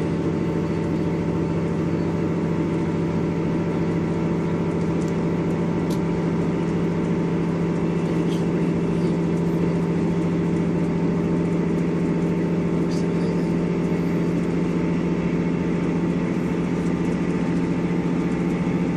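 Class 158 diesel multiple unit's underfloor diesel engine running hard under power, heard from inside the carriage as a steady, even drone with track rumble.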